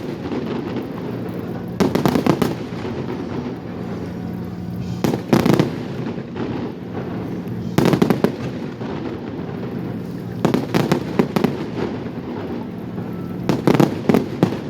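Fireworks display: volleys of bangs and crackles about every three seconds, each a quick cluster of several sharp reports. A steady low hum runs underneath.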